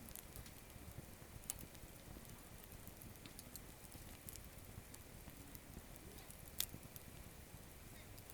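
Small campfire of gathered wood burning low, crackling faintly with scattered sharp pops. One louder pop comes about two-thirds of the way through.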